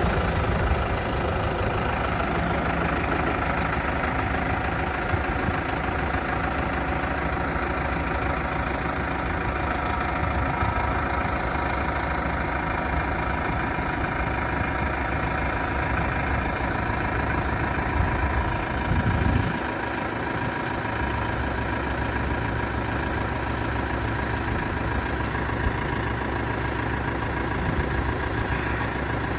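Case International 95 tractor engine idling steadily. About two-thirds of the way through, its note rises and swells briefly, then settles back to a steady idle.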